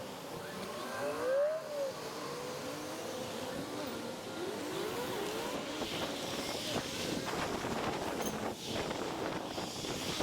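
Steady wind and rolling noise on a microphone carried on a moving bicycle. A few short tones glide up and down in the first half, the loudest about a second and a half in.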